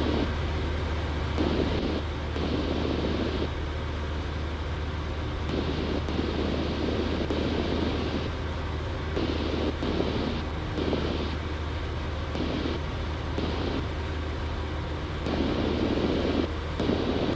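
Cessna 172's four-cylinder piston engine and propeller droning steadily in cruise, heard from the cabin, with patches of rushing noise that cut in and out every second or two.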